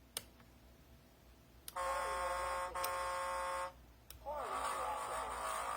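Electronic ship's horn from the model tug's RC sound module, played through a small speaker: two buzzy blasts of about two seconds each. The second blast is rougher and slides up in pitch as it starts.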